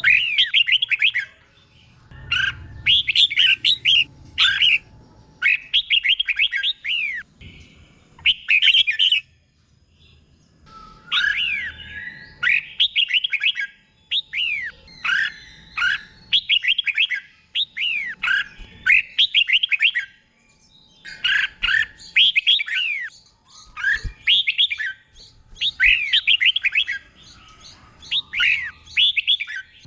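Red-whiskered bulbul singing: loud, quick whistled phrases of about a second each, with short pauses between them and phrases often repeated twice in a row (the doubled phrasing kept in 'teacher bird' song).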